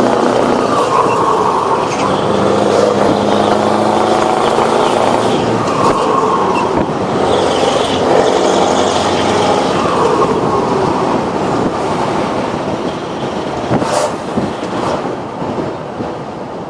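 Scania 164 580's V8 diesel running loud through an open exhaust, its pitch rising and falling several times as it revs. There is a brief sharp noise near the end, and the sound grows quieter at the close.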